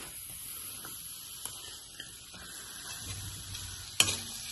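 Sliced onions frying in oil in a kadhai, a steady faint sizzle, with one sharp knock on the pan near the end.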